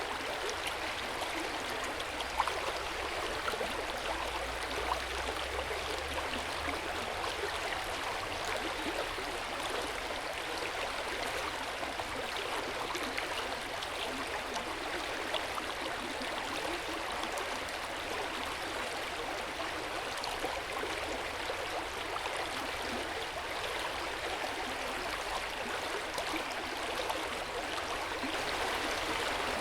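Hot spring water running and splashing into an open-air bath, a steady gentle flow with two brief louder splashes about two and five seconds in.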